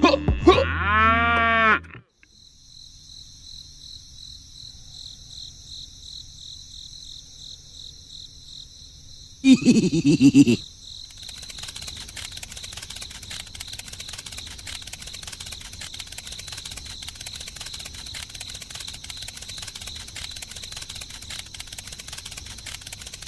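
Repeated swooping pitched tones for the first two seconds, then a steady high buzzing in the background. About ten seconds in comes a single loud animal call, about a second long, falling in pitch, after which the buzzing goes on with a fine crackle.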